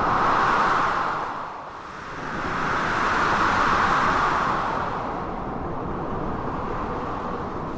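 Blizzard wind gusting, swelling twice in the first half and then blowing more evenly, over a steady low rush of storm noise.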